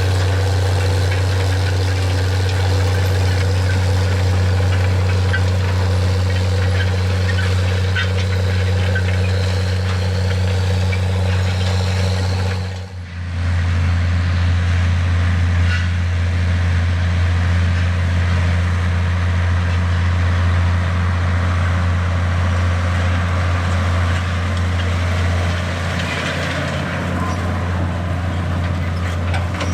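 John Deere 9420 tractor's 12.5-litre diesel engine running steadily under load while pulling a vertical tillage disk, with a deep, even hum. The sound drops out briefly about halfway through, then carries on as before.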